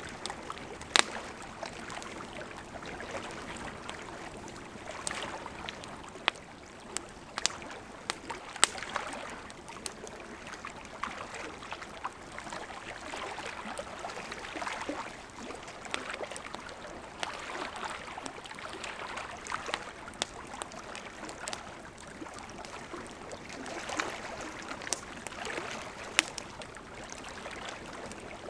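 Wood campfire burning: a steady soft hiss of flames with irregular sharp crackles and pops of burning wood, the loudest about a second in and again around seven to nine seconds in.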